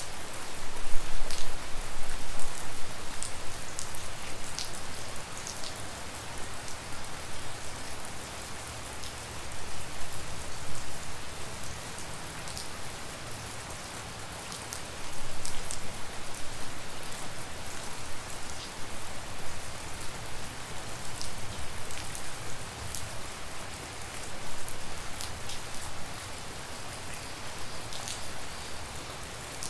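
Steady tropical rain falling at night, with sharp individual drops and drips ticking through the hiss. The downpour swells heavier about a second in and again around halfway, then eases back.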